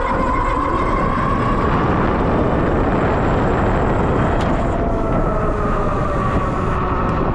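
Electric bike motor whining under way, its pitch rising over the first couple of seconds, with a second whine setting in later and falling slightly toward the end, under heavy wind rush on the microphone.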